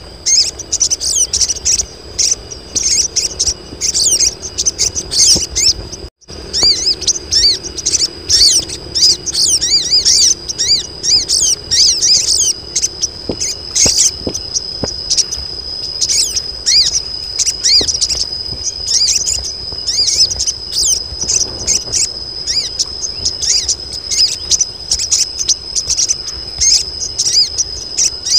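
A group of female sogon birds calling in breeding condition: a dense chatter of rapid, high, thin chirps, with a steady high-pitched whine underneath. The sound cuts out briefly about six seconds in.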